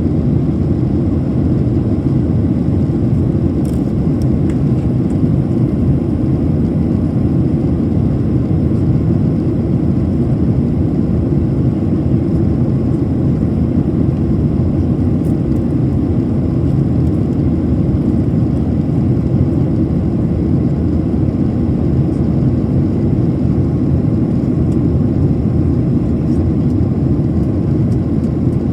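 Steady low rumble of a Boeing 737-800 in flight, engine and airflow noise heard inside the cabin.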